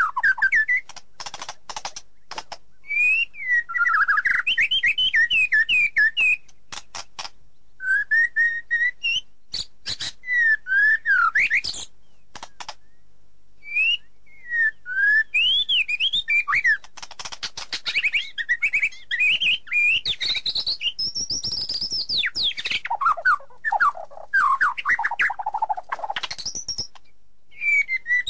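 Songbird singing in phrases of quick whistled notes that swoop up and down, with many sharp clicks mixed in and short pauses between phrases.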